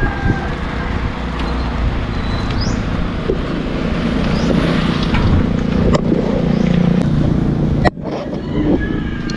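Road noise while cycling: a heavy rumble of wind on the microphone mixed with passing traffic, a motor vehicle's engine swelling in the middle. The sound breaks off abruptly for a moment about eight seconds in.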